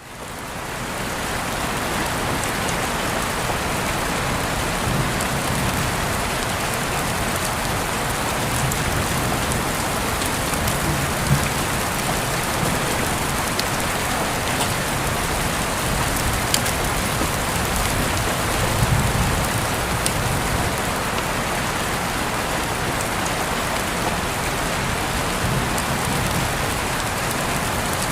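Steady rain falling, with scattered sharp drop ticks standing out here and there; it fades in over the first second or two.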